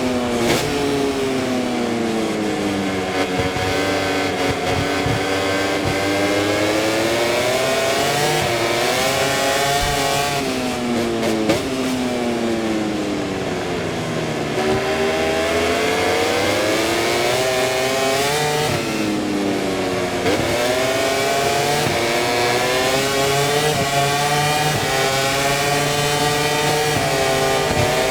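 Aprilia RS-GP MotoGP bike's V4 engine heard from onboard, climbing in pitch through the gears and dropping back under braking and downshifts, again and again. The longest slowdown comes about twelve to fourteen seconds in.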